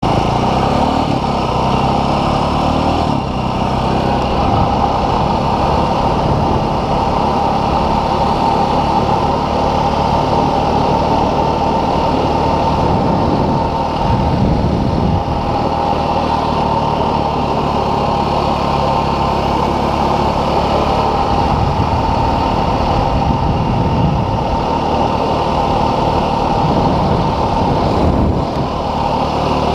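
Dual-sport motorcycle engine running steadily, with a loud low hum and no clear revving.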